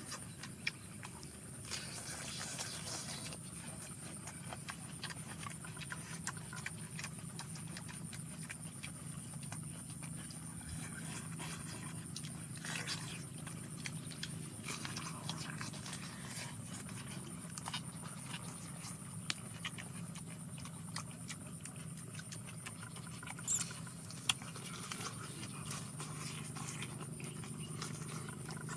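People eating by hand and chewing pork skin with pickled peppers: a scatter of small mouth clicks and smacks over a steady high hiss.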